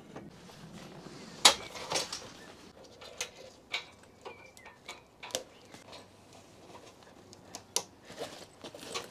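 A string of irregular sharp clicks and knocks, the loudest about one and a half seconds in, like objects being handled and set down.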